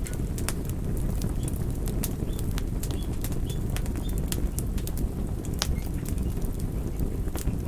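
Campfire burning, with a steady low rumble of the flames and irregular sharp crackles and pops from the burning wood. A few faint short high chirps sound near the middle.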